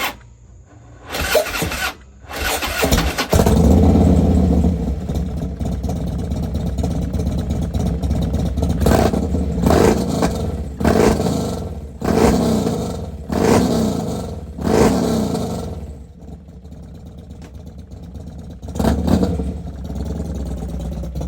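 Harley-Davidson CVO Road Glide's 117 cubic-inch V-twin cranked over and starting about three seconds in, then idling with about six quick throttle blips in a row and one more near the end.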